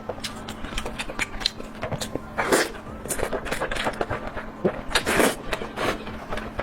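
Close-miked mukbang eating sounds: rapid wet chewing and lip-smacking clicks, with two louder, longer mouthfuls about two and a half and five seconds in.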